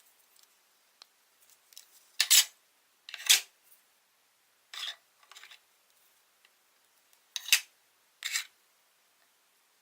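Scissors snipping a plastic drinking straw: a handful of short, sharp snips about a second apart.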